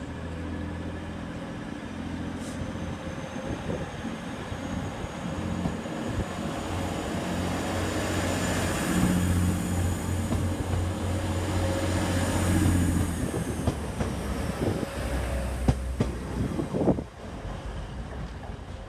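A train running through the station, its low engine and traction hum building to a peak and then dropping away about two-thirds of the way in. A thin, high wheel squeal runs through most of it, and a few sharp clicks of wheels over rail joints come near the end.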